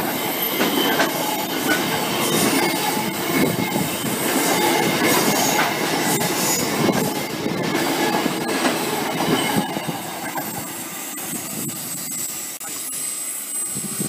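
Container freight train passing close by: the wagons rumble and their wheels clatter over the rail joints, with a thin high wheel squeal on the curve.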